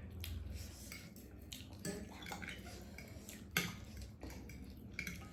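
Eating utensils clinking against bowls and dishes in scattered light clicks, the sharpest about three and a half seconds in, over a faint low hum.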